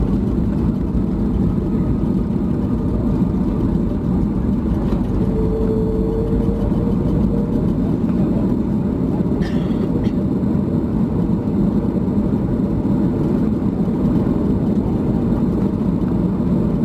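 Steady low cabin rumble inside a Boeing 737 MAX 8 on the ground after landing, with a faint hum for a couple of seconds about five seconds in and a short click about halfway through.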